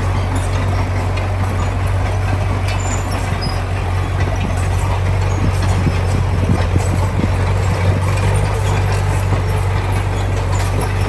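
Heavy diesel construction machinery running steadily with a deep, even drone, with scattered clanks and rattles, a few more of them past the middle.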